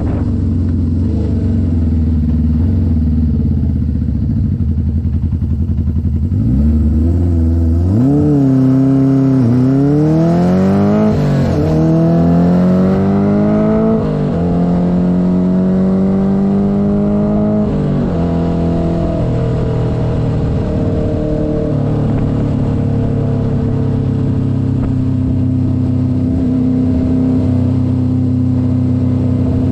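1972 Honda CB500's air-cooled inline-four engine accelerating up through the gears. The pitch climbs and drops back at about four upshifts, then holds a steady note while cruising.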